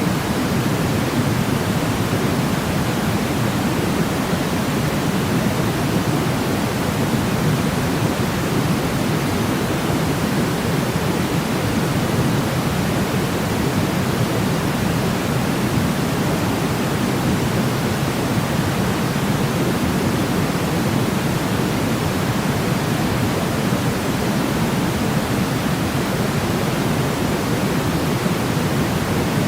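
Steady pink-style noise, a constant even hiss weighted toward the lows, for lulling a baby to sleep.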